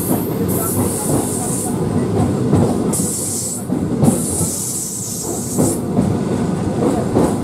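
An Indian Railways electric local train (EMU) running at speed, heard from its open doorway: a steady rumble and rattle of the coach on the track, with a high hiss that swells and fades several times.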